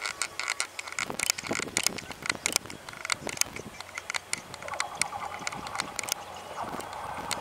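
Vietnam Railways D19E diesel-electric locomotive and its passenger train approaching on a curve: irregular sharp clicks and knocks from the wheels on the track, with the locomotive's running sound building over the last couple of seconds.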